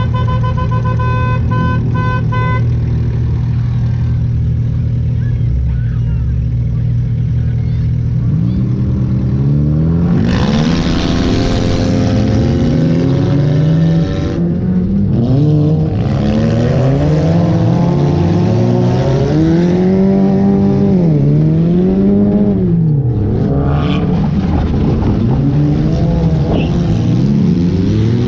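A junk race car's engine idles, then from about eight seconds in revs up and down again and again as the car is driven hard around the track, the throttle lifting and coming back on. A pulsed beeping tone sounds in the first couple of seconds.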